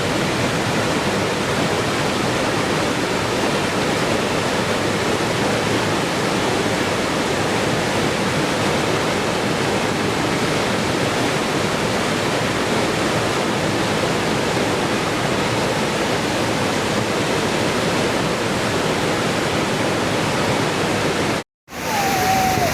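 Steady rushing water, like a waterfall or a fast stream. About 21 seconds in it cuts out for a split second, then resumes with a slightly different texture.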